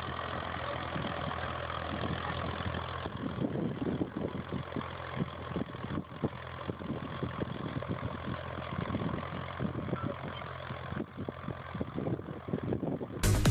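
An engine running steadily, with many irregular knocks and clatters over it from about three seconds in. Loud electronic music cuts in right at the end.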